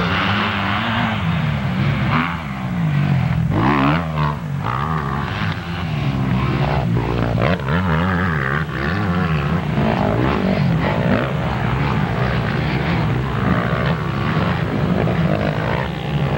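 Several motocross bike engines running on the track, their pitch rising and falling as riders rev and change gear.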